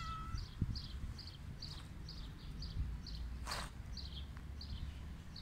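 A small bird chirping over and over, about two short high chirps a second, over a low rumble, with a brief rustle about three and a half seconds in.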